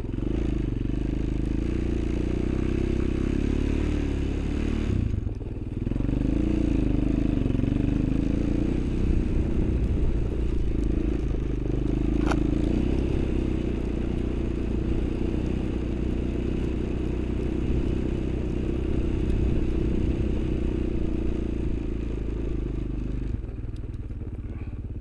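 Off-road vehicle engine running steadily under way, throttle briefly eased about five seconds in and then picking up again with a wavering pitch. A single sharp click sounds about twelve seconds in.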